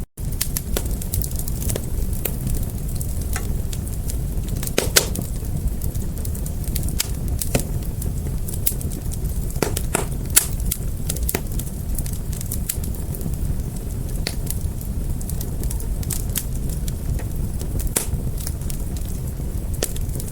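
A fire burning steadily with a low rumble and scattered crackles and pops; the sharpest pops come about five and ten seconds in. The sound drops out for a split second right at the start.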